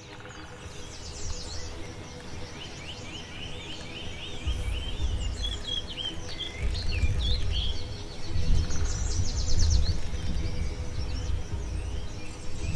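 Birds singing, many quick repeated chirps and trills, over background music; a deep low sound swells in about four and a half seconds in and the whole grows louder.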